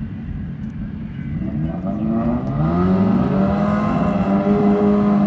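Drag racing motorcycle engine revving up, its pitch climbing for a couple of seconds and then holding high and steady as it grows louder.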